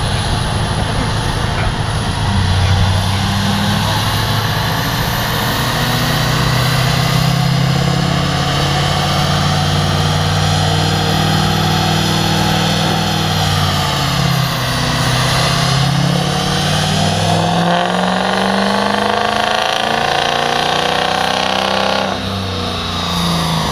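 Turbo-diesel pickup truck engine under load on a chassis dynamometer, pulling hard and holding its revs, then dipping briefly. It climbs again with a high whine rising over it and drops off near the end as the throttle is let off.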